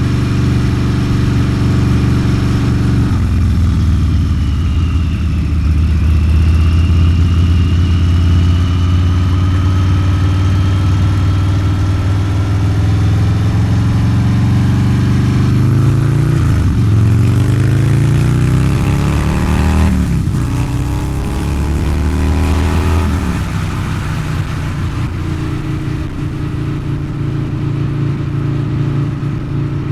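Harley-Davidson Low Rider's 129-cubic-inch V-twin with a Two Brothers Racing exhaust, ridden on the street: a steady loud pull for the first half, then the engine pitch dips and climbs again twice past the middle. Near the end it eases off and runs quieter and steadier.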